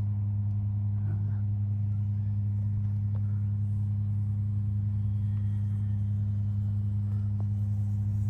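Steady low hum at one unchanging pitch, with a few faint ticks.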